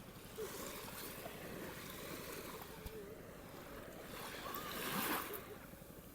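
Sea waves washing onto a sandy beach, one swelling and breaking loudest about five seconds in.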